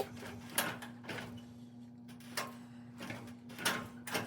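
Scattered light clicks and knocks from garage door hardware being handled during spring tensioning, over a steady low hum.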